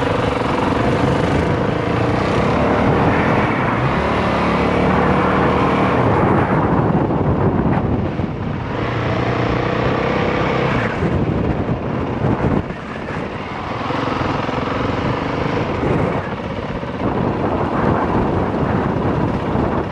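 Single-cylinder dual-sport dirt bike running under way, the engine note easing off briefly about eight and twelve seconds in before picking up again.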